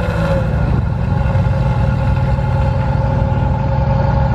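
Car engine idling with a steady low rumble and a faint even whine above it; the pitch sags slightly in the first half-second, then holds level.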